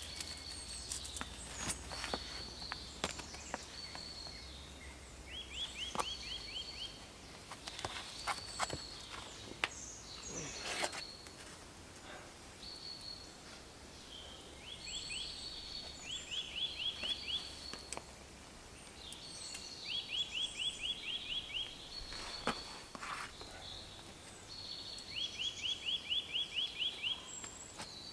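Songbird singing in woodland: a quick trill of about ten short rising notes a second, repeated every few seconds, with brief high calls in between. Under it are scattered scuffs and taps of a climber's shoes and hands on the rock.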